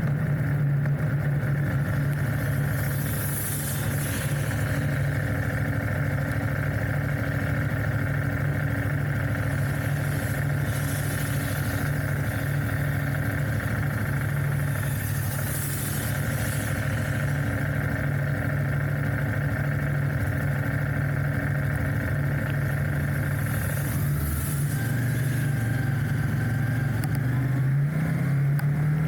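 Enduro motorcycle engine running at a steady cruising speed on a gravel road, with brief rushes of hiss now and then. The engine note shifts at about 24 seconds and again near the end.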